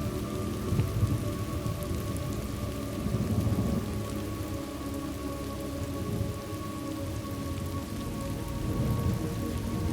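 Steady rain ambience with a low rolling thunder rumble that swells and fades, over a soft, sustained music drone.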